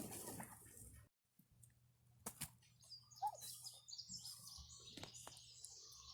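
Faint chirping of small birds: scattered short high calls from about three seconds in, with a few soft clicks.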